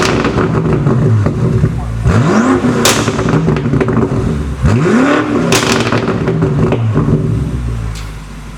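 BMW F90 M5's twin-turbo V8 through a valved aftermarket catback exhaust, revved sharply twice and falling back each time, with a sharp crack near the top of each rev. It settles to idle near the end.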